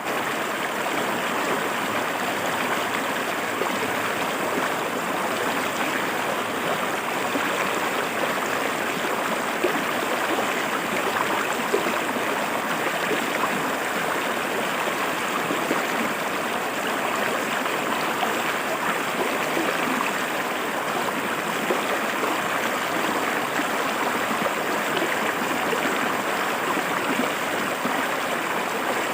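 River water flowing and splashing over rocks, a steady rushing with small gurgles and splashes.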